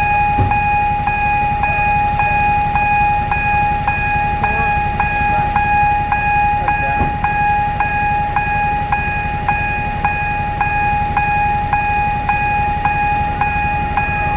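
Electronic level-crossing warning bell ringing steadily, about two strokes a second over a continuous high tone, with a steady low rumble underneath.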